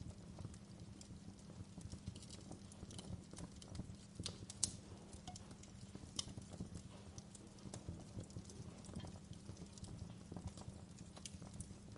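Wood fire crackling in a fireplace: irregular pops and snaps over a low steady rumble. One sharper pop stands out about five seconds in.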